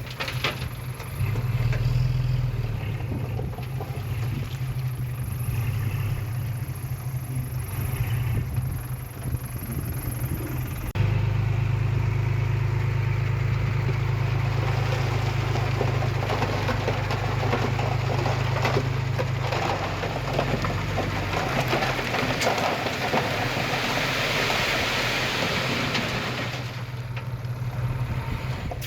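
Heavy earthmoving machine's diesel engine running steadily at a low drone. About a third of the way in the engine note changes abruptly and grows louder, and a rough, rushing noise builds over it later on.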